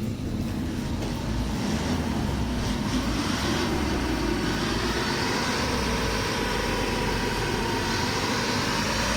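Peugeot 308 1.6 HDi four-cylinder turbodiesel running under load and building revs: its pitch climbs slowly and it grows louder toward the end.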